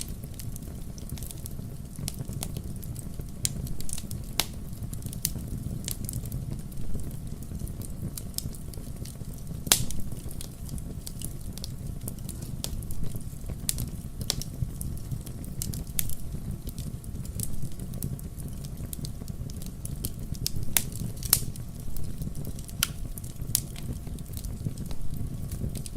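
Wood fire crackling: irregular sharp pops and snaps over a low steady rumble, with a louder pop about ten seconds in.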